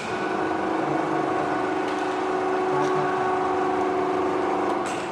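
A motor-driven machine, such as a blower, running steadily with a constant pitched whine, fading out near the end.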